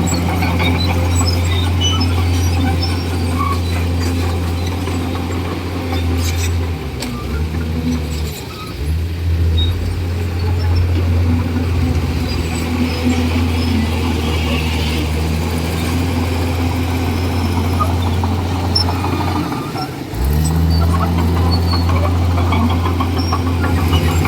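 Komatsu D41E bulldozer's diesel engine running steadily under load. Its note dips briefly twice, around seven to nine seconds in and again near twenty seconds, then picks back up.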